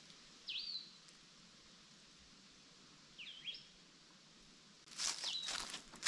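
A bird giving short, high calls that swoop sharply down and back up, about half a second in and again about three seconds in, over a faint forest background hiss. Near the end, footsteps begin on the trail, with a last call over them.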